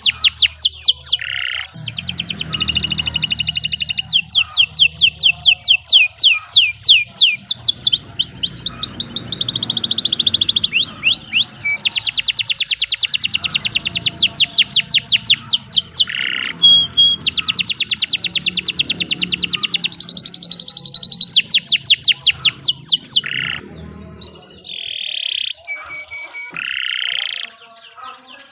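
Domestic canary singing a long, unbroken song of fast trills, each a rapid run of repeated high notes, with short whistled notes between the runs. The song thins to scattered notes over the last few seconds.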